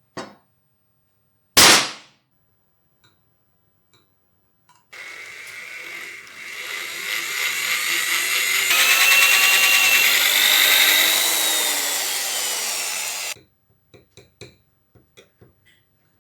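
An electric power tool running for about eight seconds, building up in level, with tones that shift in pitch as it works, then cutting off abruptly. A single sharp knock comes before it starts, and a few light clicks follow.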